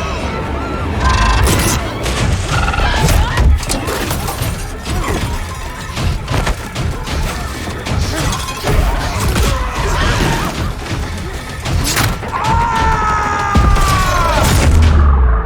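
Film action soundtrack: music under repeated thuds, crashes and breaking sounds, with a high pitched sound that slides slowly downward for a couple of seconds near the end.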